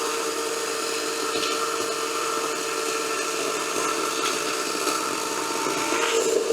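DCK 58V 18-inch brushless cordless chainsaw running at a steady high whine while cutting through logs, a little louder near the end.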